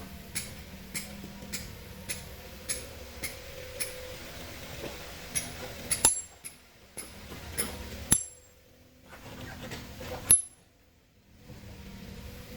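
Hand hammer striking a steel chisel or wedge into rock with short ringing metallic clinks, a steady tapping of nearly two strikes a second. About six seconds in it gives way to three harder, spaced blows, the loudest about ten seconds in.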